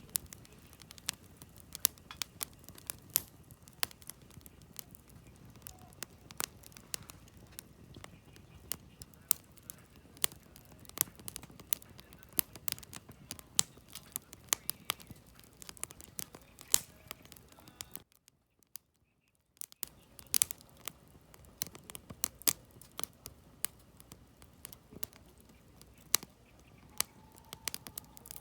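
Wood campfire crackling: burning logs giving off sharp, irregular snaps and pops over a low hiss. About two-thirds of the way through, the sound cuts out entirely for under two seconds, then the crackling resumes.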